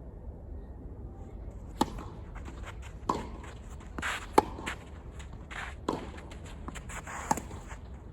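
Tennis rally: five sharp racket-on-ball strikes about every second and a half, starting a little under two seconds in, with fainter ball bounces and footfalls between them.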